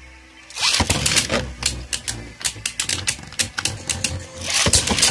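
Beyblade Burst tops launched into a plastic stadium about half a second in, then spinning and clashing with rapid, irregular clicking hits, with a louder flurry of collisions near the end.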